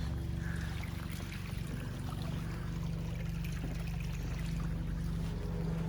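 Small stream running below a footbridge, with a steady low hum underneath.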